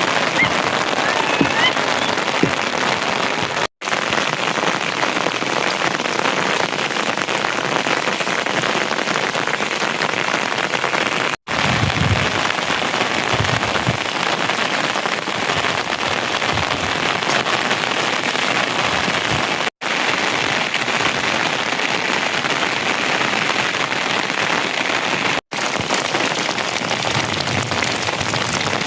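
Steady heavy rain falling and spattering on surfaces, broken by four brief silent gaps.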